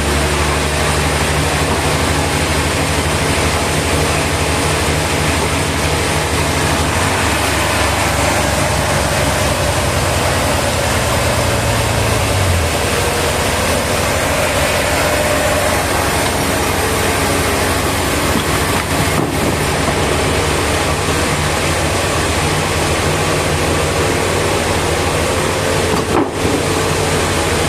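Machine engine running steadily, under a constant rushing noise; its low note drops about twelve seconds in.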